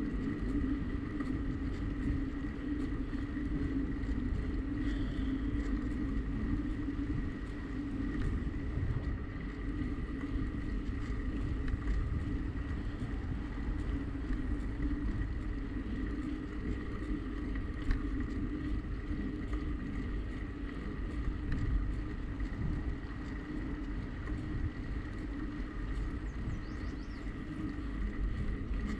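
Steady rolling and wind noise from a bicycle ride recorded on a bike-mounted action camera, with wind buffeting the microphone and a faint steady whine; a single sharp tick comes about two-thirds of the way through.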